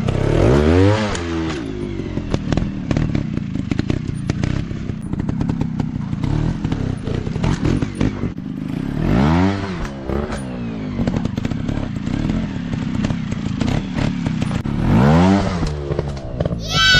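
Dirt bike engines revving in three bursts, the pitch rising and falling each time, over a steady low engine drone. Frequent short clattering knocks run through it, with a higher rising rev at the very end.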